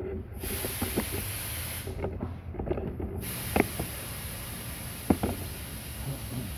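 Metal being ground or dressed on the freshly welded tip of a chainsaw harvester bar to square it up. A hissing, scraping noise comes in spells, stopping briefly about two seconds in, with sharp metallic knocks, the loudest two a second and a half apart.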